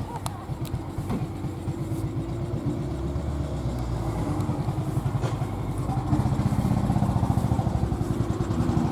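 A motor vehicle's engine running at low speed, a deep pulsing rumble that grows louder about six seconds in.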